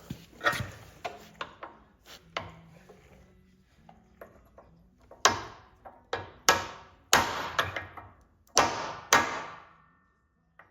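Irregular series of about a dozen sharp metal clanks, each ringing briefly, fewer and lighter early on and loudest and closest together in the second half: steel pins, bushings and hand tools being struck or set down in a workshop.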